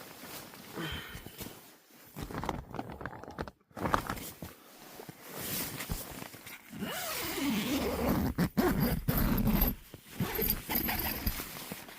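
A zipper pulled in several short, uneven runs, amid rustling and sharp clicks of handling, with a louder, rumbling stretch of handling noise from about seven to ten seconds in.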